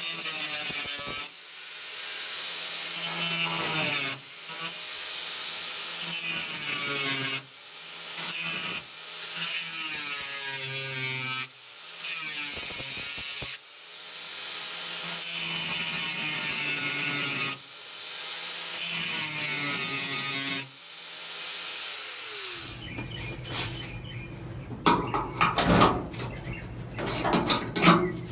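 A cut-off wheel slicing through the rusty sheet-steel floor pan of a 1979 Ford F100 in a series of passes of one to four seconds each, with brief dips between them. The cutting stops about three-quarters of the way in and gives way to sharp metal clanks and knocks.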